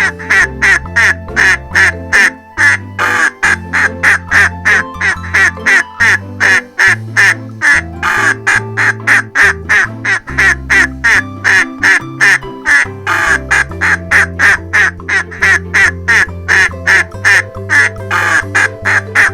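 Duck quacking over and over, loud short quacks about three a second in quick runs, with children's background music and a steady bass line underneath.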